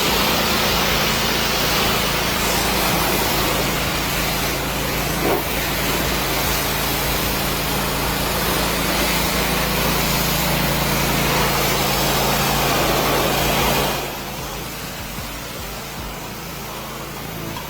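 Motor-driven pressure washer running, its pump humming steadily under a loud hiss of water spray; it cuts off about fourteen seconds in and a quieter hiss remains.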